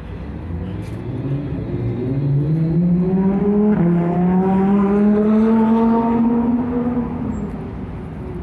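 A road vehicle's engine accelerating past. Its pitch climbs, drops once near four seconds in as it shifts gear, climbs again, and fades as it moves away.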